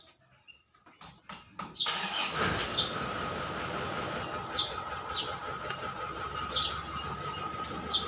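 A small bird chirping in short, sharp single notes every second or so. From about two seconds in, a louder steady machine-like noise with a thin whine starts up and keeps going under the chirps.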